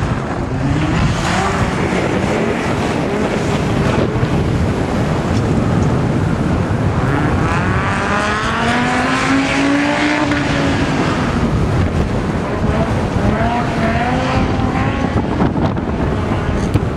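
A car engine revving as the car is driven hard around a course of cones. Its pitch climbs and falls in long sweeps, the longest about halfway through, over a steady rushing background noise.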